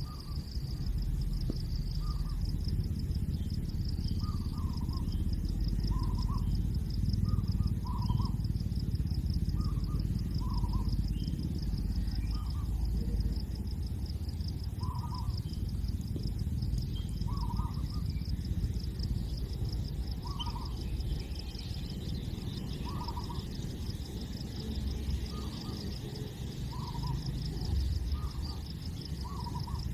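A steady, fast-pulsing high insect buzz runs throughout. Over it come short, low calls, repeated every one to two seconds, against a loud low rumble.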